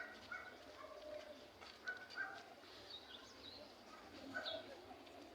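Faint outdoor background with scattered short, distant calls and chirps, none standing out.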